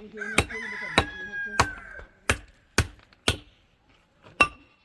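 A run of sharp knocks, about two a second, with a pause near the end before three more that ring briefly. A bleating call from livestock carries over the first two seconds.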